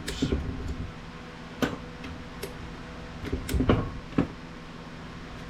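Sharp clicks and knocks of hard parts and a tool being handled while taking apart scrap IT equipment: a short cluster at the start, then single knocks about a second apart and a small group near the end.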